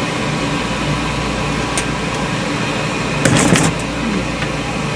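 A motor running with a steady hum, with a short clatter a little past three seconds in.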